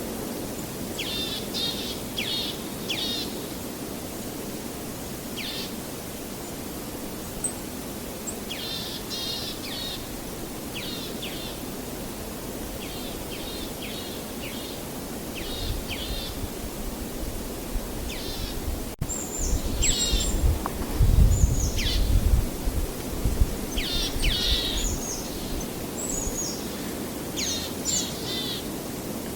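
Songbirds singing in short repeated phrases over a steady low rush of outdoor noise. A deeper rumble swells between about 16 and 25 seconds in, loudest a little past the middle.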